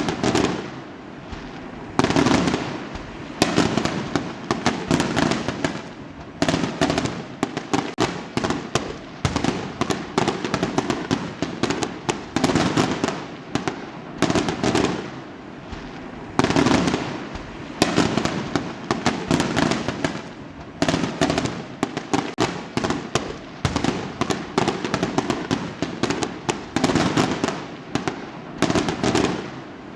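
Fireworks going off in quick succession: repeated sharp bangs, each followed by a crackling tail, in clusters every second or two.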